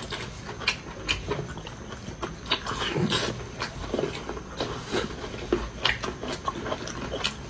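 A person chewing a mouthful of pork large intestine close to the microphone: wet chewing and lip-smacking, with many irregular short clicks and squelches.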